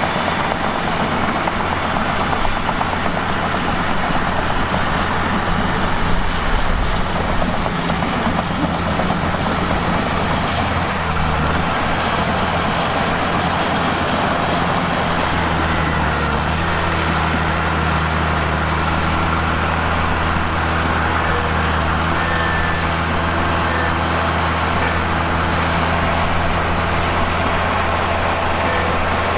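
Bulldozer diesel engine running. Its low note shifts a little past halfway, then holds even.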